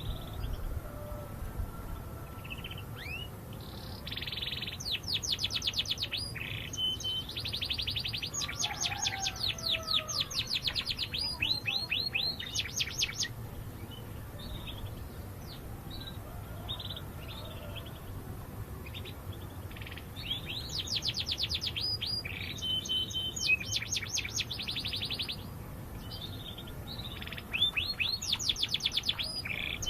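Domestic canary singing in rapid trills of quick, repeated descending notes. It sings three bouts: a long one from about four seconds in, another about twenty seconds in, and a third starting near the end, with quieter pauses between.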